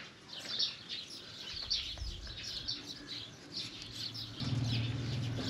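Small birds chirping, many short high calls several times a second. About four seconds in, a steady low hum starts and grows louder under the chirps.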